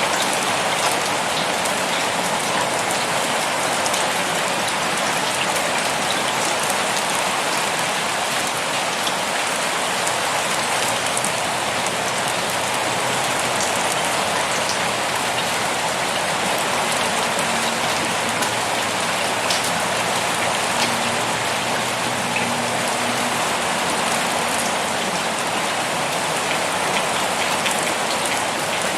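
Pouring rain: a steady, dense hiss of heavy rainfall, with sharper hits of single drops standing out here and there.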